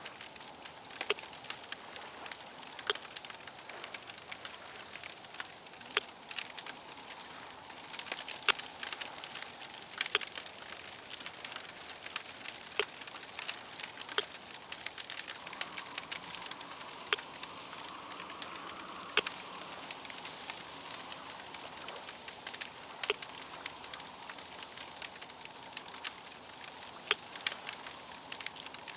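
Crackling wood fire: a steady soft hiss with sharp pops and snaps at irregular intervals. A faint, slightly higher whoosh swells in the middle.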